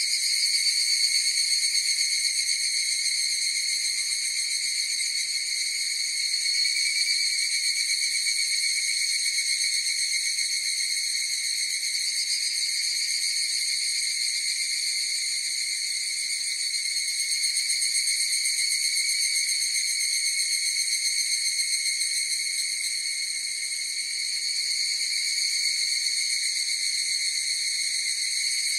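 A chorus of higurashi (evening cicadas, Tanna japonensis) calling: a steady, high-pitched ringing drone that swells and eases gently in loudness several times.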